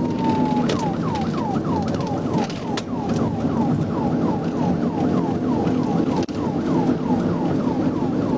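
Police car siren: a falling wail tone ends about half a second in, and the siren switches to a rapid yelp of quick falling sweeps, about three a second. It runs over steady low road and engine noise during a high-speed pursuit.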